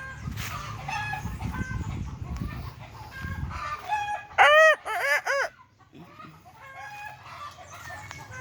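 Chickens clucking with short calls scattered throughout, and one loud chicken call of about four quick rising-and-falling notes between four and five and a half seconds in. A low rumbling noise runs under the first few seconds.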